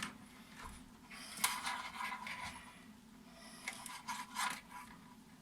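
Irregular scratching and scraping with a few sharp clicks: power-supply test leads being rubbed and pressed onto the contacts of a TV's LED backlight strip while each LED is checked at 3 volts. A faint steady low hum runs beneath.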